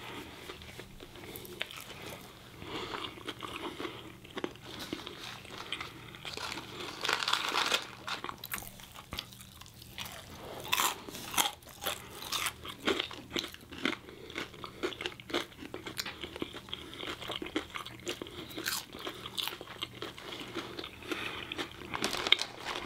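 Close-miked chewing with irregular crunches from two people eating crispy fried chicken and french fries.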